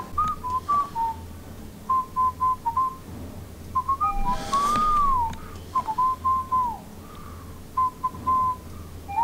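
A person whistling a tune: short, clean notes held at much the same pitch, broken by a few swoops up and down and one falling slide.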